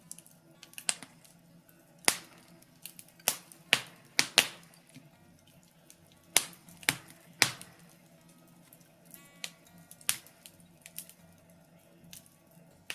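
Birch logs burning in a fireplace, crackling with irregular sharp pops and snaps. The snaps come in busy clusters a couple of seconds in and again just past the middle.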